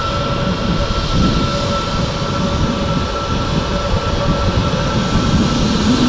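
Jet engines of an Airbus A321neo, Pratt & Whitney geared turbofans, running with a steady whine over an even rumble.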